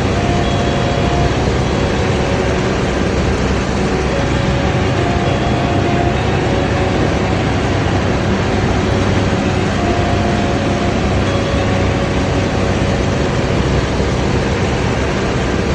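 Combine harvester running steadily under load: a constant engine and machinery noise with no breaks.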